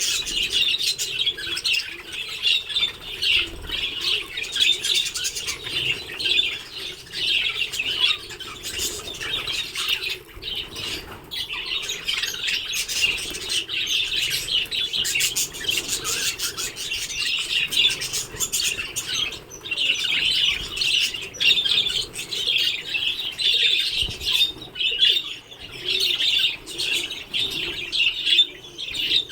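A flock of budgerigars chattering and warbling nonstop in a dense, high-pitched chorus, with wings flapping amid it.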